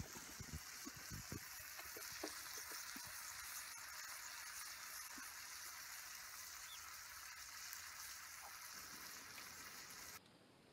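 Food sizzling in a frying pan: a steady hiss with a few soft knocks in the first couple of seconds, cutting off suddenly near the end.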